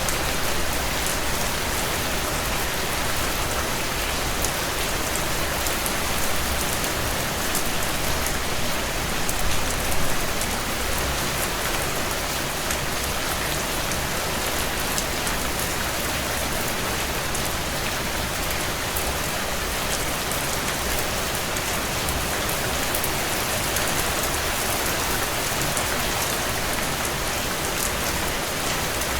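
Heavy rain falling on a tin roof: a steady, dense hiss of drops with fine pattering ticks, swelling slightly about ten seconds in.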